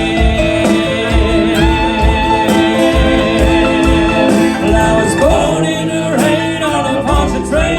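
Country band playing, with guitars over a steady low beat. A voice sings over it in the second half.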